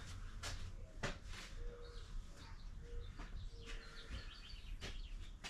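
Faint bird calls: high chirps and a few short, steady low notes, with several sharp faint clicks.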